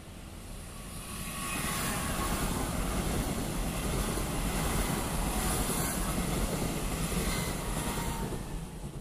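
A Taiwan Railways electric multiple-unit train passing close by at speed. The rolling noise of its wheels on the track builds about a second in, holds steady while the cars go by, and fades near the end.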